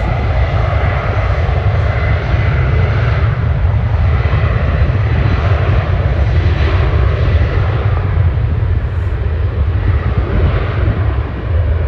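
Jet airliner engines running loud and steady, a deep rumble with a broad roar above it, mixed with wind on the microphone.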